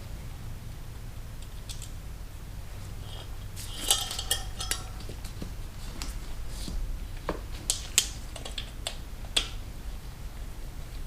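Scattered light clicks and clinks of tools and parts being handled, over a steady low hum.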